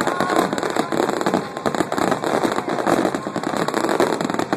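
Fireworks display: a dense, rapid barrage of bangs and crackling that never lets up.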